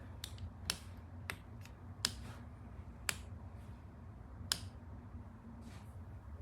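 Irregular sharp clicks, about seven over four or five seconds with a few softer ones between, over a low steady hum.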